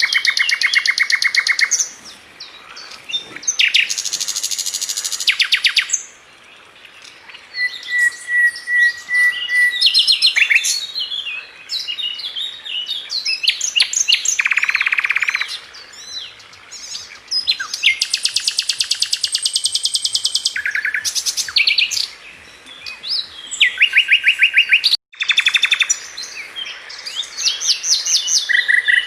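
Sikatan London flycatcher singing a varied, high-pitched song of rapid trills, rattling runs of repeated notes and short whistles, phrase after phrase with brief pauses between.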